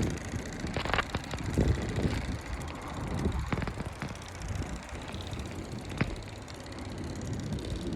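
Wind rumbling on the microphone during a bicycle ride, with a few sharp clicks and rattles from the bike.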